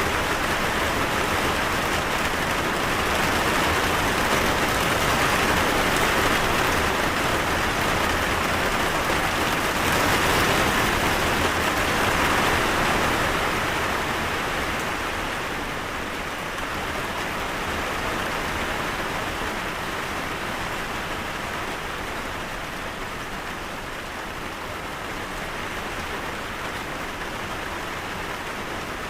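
Steady rain falling, an even hiss of drops that eases off a little about halfway through.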